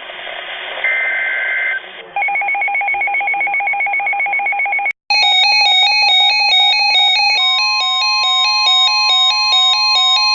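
Emergency Alert System alert tones: the last burst of a warbling two-tone SAME data header, then a rapidly pulsing two-note beep, then a fast run of stepping electronic tones with a steady tone joining about seven seconds in. These are the digital header and attention signal that precede a broadcast flood warning.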